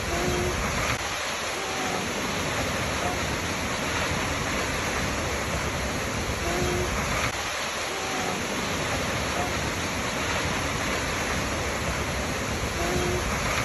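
Waterfall rushing steadily, with faint short tones recurring about every six seconds.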